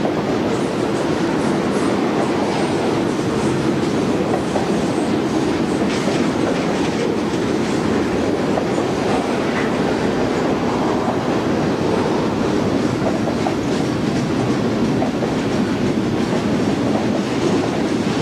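Train rolling past, a steady, loud rumble of wheels on the rails with scattered clicks.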